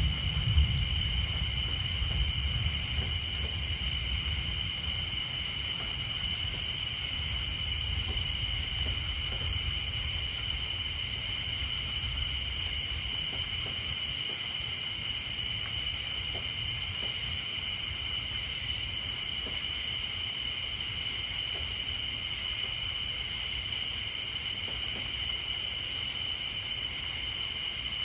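Steady high-pitched night chorus of tree frogs and insects, an unbroken trill with faint repeating calls over it. A low thunder rumble dies away during the first few seconds.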